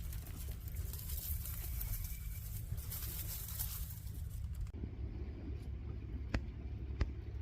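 Steady low wind rumble on the microphone, with two sharp snaps near the end, about half a second apart.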